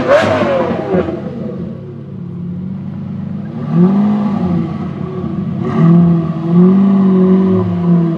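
Straight-piped Lamborghini Murciélago V12, very loud. A rev dies away at the start and the engine idles briefly. From about four seconds in come several short throttle blips, each rising and falling in pitch.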